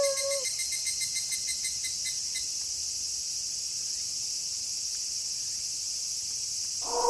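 Steady high-pitched chirring of crickets in a night insect chorus, with a pulsing trill over it for the first couple of seconds. At the start the tail of a wolf howl slides down in pitch and fades out about half a second in, and a new howl begins just before the end.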